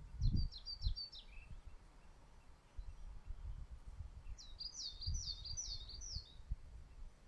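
A small songbird singing two quick phrases of high, falling chirps, one at the start and a longer one about four seconds in, over a low uneven rumble.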